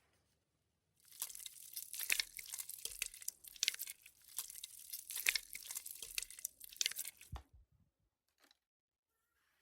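Play-Doh modelling dough being pulled, torn and squeezed, with dense irregular crackling and crunching. It starts about a second in and stops with a soft thud a couple of seconds before the end.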